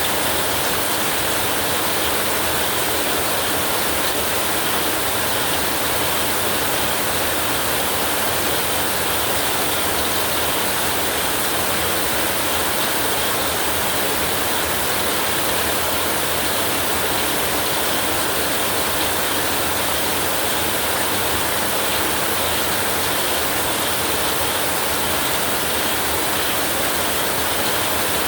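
Heavy rain falling steadily: a dense, even hiss with no breaks or swells.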